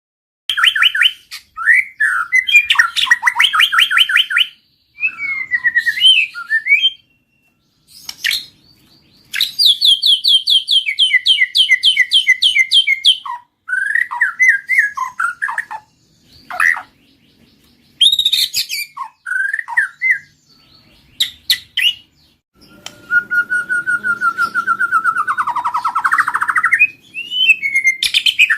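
White-rumped shama singing loud, varied phrases separated by short pauses: fast runs of repeated notes, quick trills and whistled slurs, and near the end a long trill that dips in pitch and climbs again.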